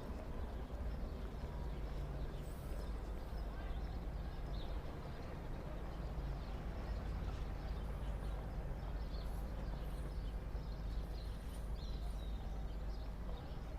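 Added old-city street ambience: a steady low rumble with a haze of background noise, and faint short bird chirps in the second half.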